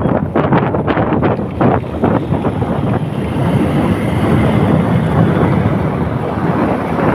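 Wind buffeting the microphone, loud and gusty for the first few seconds, then a steadier rushing.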